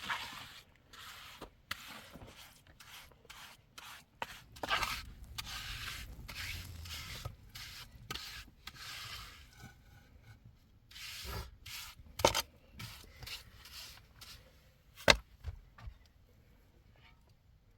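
Irregular scraping and rubbing strokes of hand work, broken by two sharp knocks a few seconds apart in the second half.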